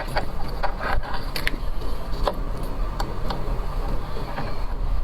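Sporadic short clicks and crackles of seafood being handled and eaten, over a steady low hum.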